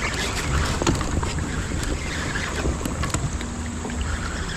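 River current rushing and lapping against a fishing kayak's hull, with wind buffeting the microphone and a few light knocks.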